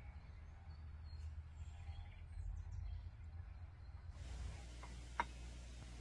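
Quiet outdoor ambience: a steady low rumble with faint bird chirps, and a single sharp click about five seconds in.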